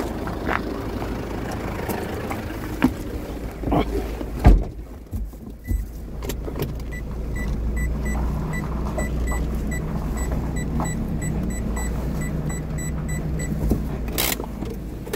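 A vehicle's engine running steadily, with an electronic warning chime beeping two to three times a second for several seconds. Before it come knocks and one heavy thump about four and a half seconds in, and there is a short loud bang near the end.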